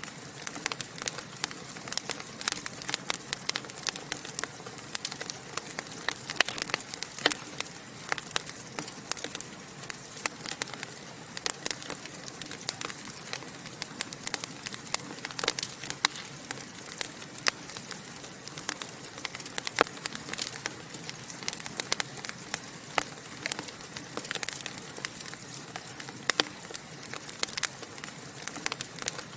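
Fire in a fireplace crackling: a constant stream of small sharp pops and snaps over a soft hiss, with louder pops scattered throughout.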